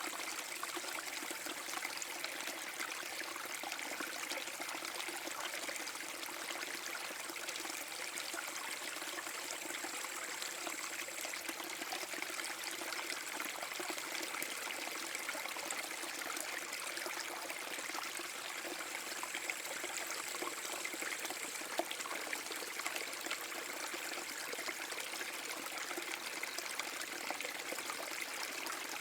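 Small forest brook waterfall: water falling and trickling over stones in a steady, unbroken splash.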